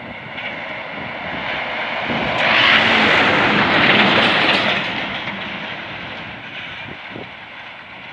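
Scania R500 V8 truck with a livestock trailer driving past: engine and tyre noise build to a peak about three to four seconds in, then fade away.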